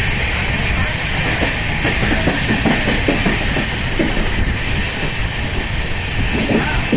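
Udyan Express passenger train running on the rails: a steady rumble with irregular wheel-and-track clatter and a steady hiss over it.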